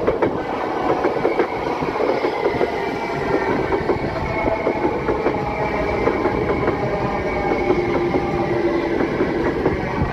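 South Western Railway electric multiple-unit train passing close by, a steady rumble of running noise with wheels clicking over the rail joints and points.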